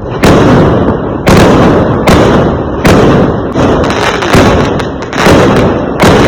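Fireworks exploding in quick succession: about eight loud bangs, roughly one a second, each trailing off in a rumbling decay.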